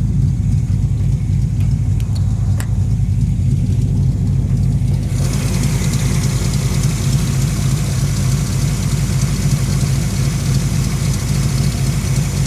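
Car engine idling steadily under the hood. About five seconds in, a steady hiss starts up over the engine sound and stays.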